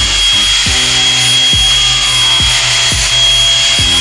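Electric drill with a mixing paddle running steadily, stirring pigment powder into Plasti Dip, with a constant high whine and a low hum that dips in pitch every second or so.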